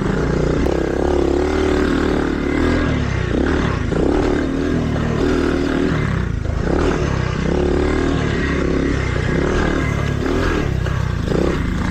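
Small single-cylinder mini dirt bike engine being ridden on a trail, its pitch rising and falling several times as the throttle is opened and closed.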